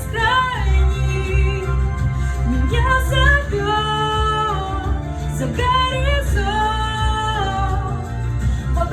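A woman's voice singing a pop song over a backing track, holding long notes that bend and slide between pitches, with a steady bass underneath.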